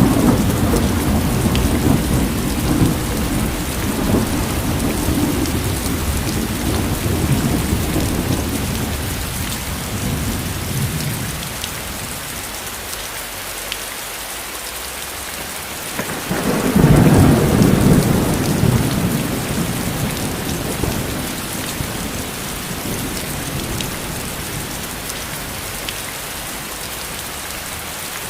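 Steady rain with rolling thunder. A low rumble fades away over the first dozen seconds, then a sharper thunderclap comes about sixteen seconds in and rolls off over several seconds.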